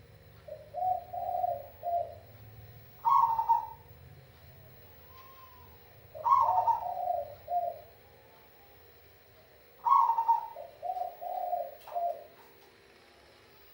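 Perkutut (zebra dove) cooing in repeated phrases. Most phrases open with a higher note and run into a quick string of three or four lower coos, about three times over, with pauses of a few seconds between them.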